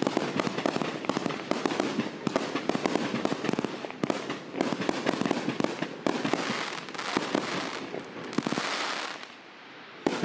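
A 72-shot consumer compound firework cake firing: a rapid, dense string of shots and crackling pops. About six seconds in it turns to hissing and crackling effects that fade briefly, and a new burst of shots starts just before the end.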